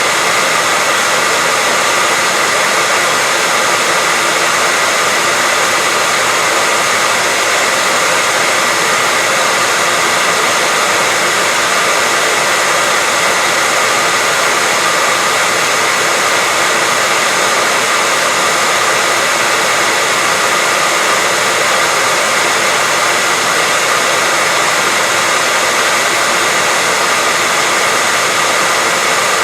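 Hair dryer running continuously at a steady speed: an even, unbroken rush of air with a faint steady whine of the motor and fan.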